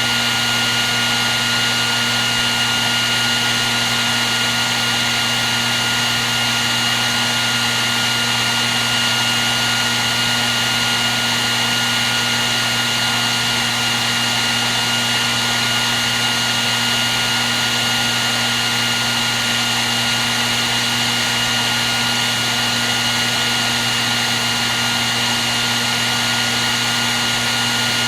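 Hair dryer running without a break: a steady rush of blown air with a constant motor whine over it.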